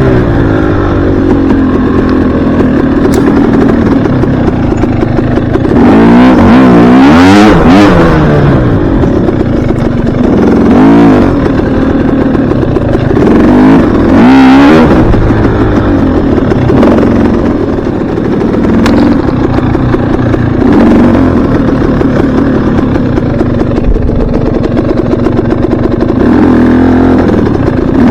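Dirt bike engine running loud, its pitch rising and falling as the throttle is opened and closed, with the hardest revving about six seconds in and again about fourteen seconds in.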